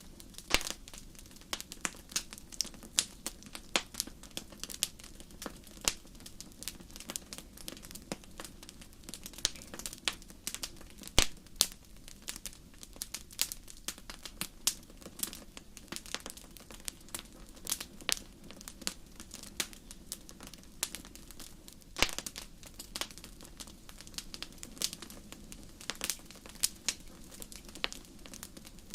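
Fire in a fireplace crackling: irregular sharp pops and snaps, several a second, over a low steady hiss, with the loudest pops about eleven and twenty-two seconds in.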